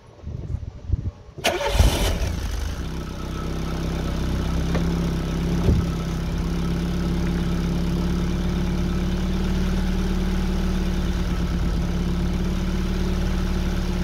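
Car engine cranking briefly and catching about two seconds in, then settling into a steady idle, heard from beneath the car by the exhaust. The holed rear exhaust box is wrapped in aluminium exhaust tape, and the tape is holding the seal.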